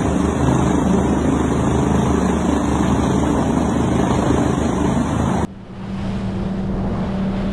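Helicopter running over the roar of rushing water, with a fast low beat from the rotor. About five and a half seconds in, it cuts off abruptly to a different, steadier noise with a constant low hum.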